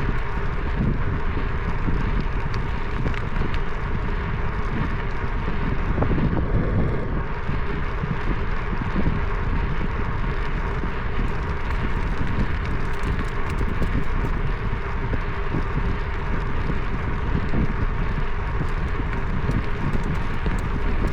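Steady wind rush on the microphone of a camera riding along on a moving bicycle.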